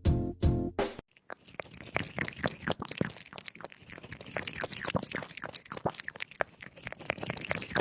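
Close, crunchy chewing: rapid, irregular crunches for several seconds, starting about a second in.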